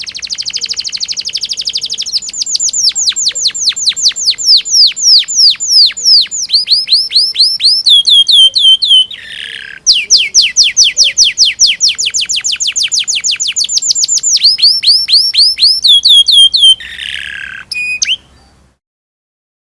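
Domestic canary singing: a rapid rolling trill, then long runs of loud, repeated down-sweeping chirps at about four or five a second, broken twice by a short harsh buzzy phrase. The song cuts off shortly before the end.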